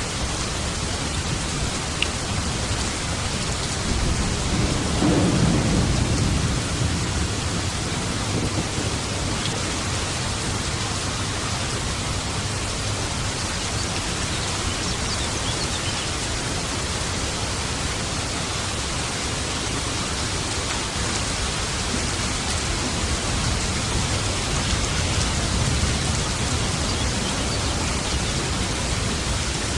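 Steady rain falling, with a low rumble of thunder swelling about five seconds in and a fainter rumble later on.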